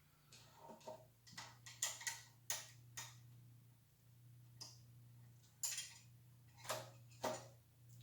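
Irregular light clicks and taps of metal bicycle parts being handled and fitted, about a dozen spread unevenly, over a steady low hum.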